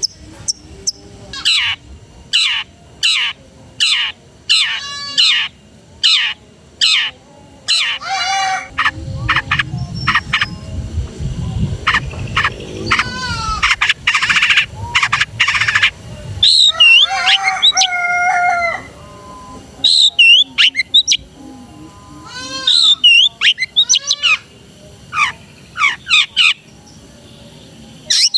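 Long-tailed shrike singing vigorously: a run of sharp, down-slurred notes about twice a second, then dense warbling and varied phrases mimicked from other birds.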